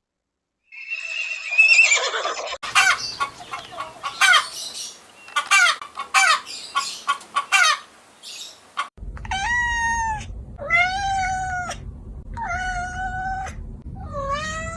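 Chickens clucking in a quick run of short calls, then a cat meowing four times.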